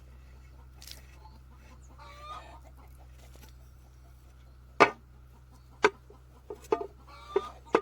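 Chickens clucking in short, wavering calls, broken by a few sharp knocks that are the loudest sounds, with a steady low hum underneath.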